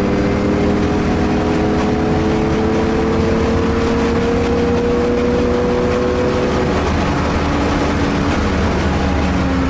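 Car engine heard from inside the cabin at a track day, pulling hard through one gear with its pitch climbing slowly for about seven seconds, then the driver lifts and the note fades, with a lower, falling engine tone near the end. Steady road and wind noise runs underneath.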